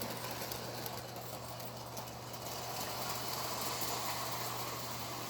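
Model electric train running steadily along its track, a continuous hum with a steady rumble.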